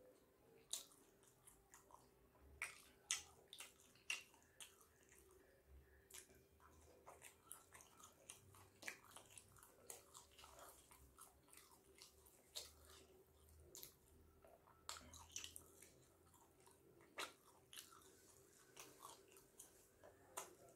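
Faint chewing of steamed chicken momos dipped in schezwan chutney: irregular soft mouth clicks, over a steady hum.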